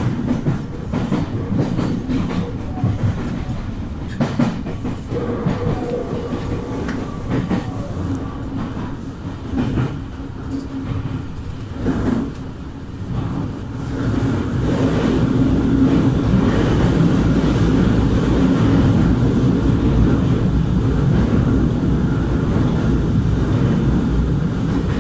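Nankai electric train running, heard from behind the driver's cab. Its wheels click repeatedly over a set of points during the first half, then from about halfway it gives a louder, steadier running rumble inside the covered station approach.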